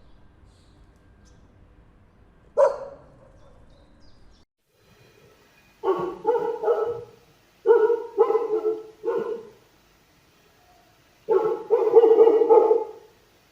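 Dog barking: a single sharp bark, then after a pause a series of barks in quick groups, with a longer run of barking near the end.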